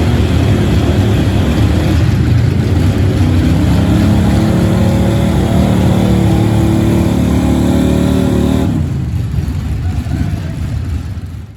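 Gas-engined pulling truck running flat out under load, engine note holding steady at high revs, then easing off about three-quarters of the way through as the throttle comes back at the end of the pull.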